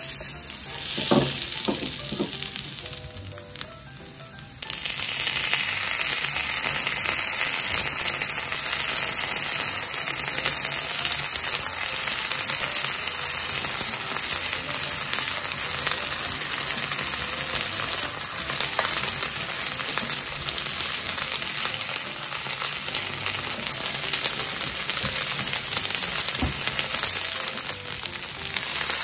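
Okonomiyaki frying on a hot griddle: a steady sizzle, with a few light knocks in the quieter opening seconds, then the sizzle comes in suddenly louder about four and a half seconds in and holds.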